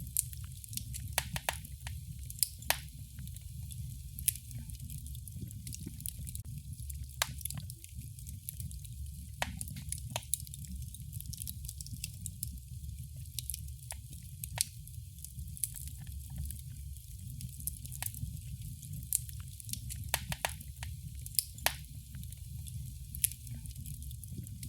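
Wood fire crackling in a fireplace: irregular sharp pops and snaps, scattered unevenly, over a steady low rumble of the burning fire.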